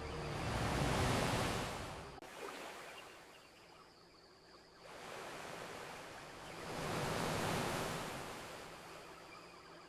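Ocean waves washing onto a beach, two surges of surf, the first about a second in and the second a few seconds before the end, with quieter wash between.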